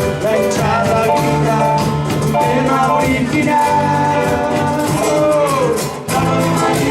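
Live band playing a Latin American song, with a sung vocal line over the instruments.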